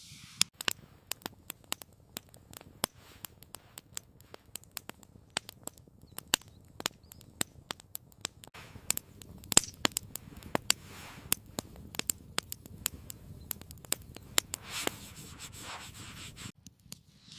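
Wood campfire crackling, with irregular sharp pops several times a second and a brief rustle near the end.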